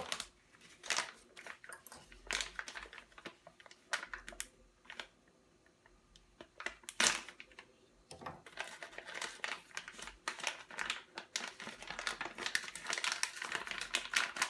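Plastic packaging crinkling and rustling as it is handled, with irregular sharp clicks and crackles. There is a quieter lull about five to six seconds in, and one loud click around seven seconds in.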